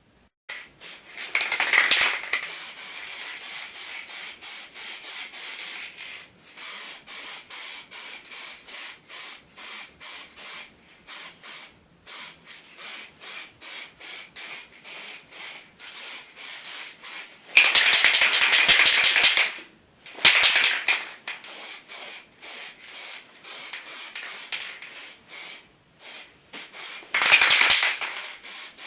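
Hand sanding of small cherry-wood pieces: rhythmic back-and-forth rubbing strokes, about three a second. Three times, about two seconds in, in the middle and near the end, the sound grows into louder, longer hissing stretches of a second or two.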